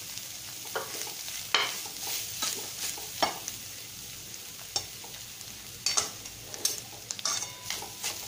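Grated coconut frying in ghee in a metal pan with a steady sizzle, stirred with a wooden spatula that scrapes and knocks against the pan at irregular moments.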